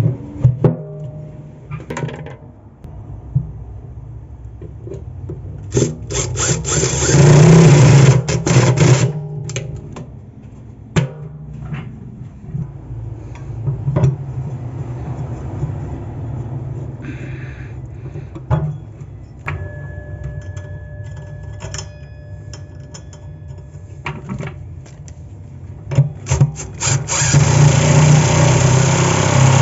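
Clanks, knocks and scraping of tools and parts while a GE washing machine is taken apart, with two longer loud stretches of rubbing or grinding noise, one a few seconds in and one near the end.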